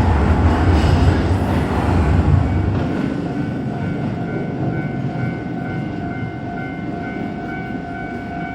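A Keisei Main Line train passing over a level crossing, with a heavy rumble from its wheels on the track that drops away about three seconds in. A steady pitched tone carries on after it.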